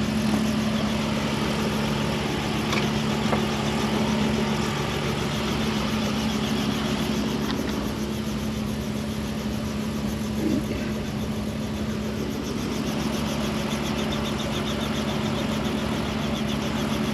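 An engine running steadily at a constant pitch, with a continuous hum and no change in speed.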